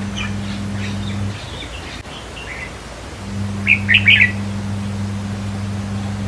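Red-whiskered bulbul singing in short bursts of chirpy notes, the loudest a quick phrase about four seconds in. A steady low hum runs underneath and drops out briefly in the first half.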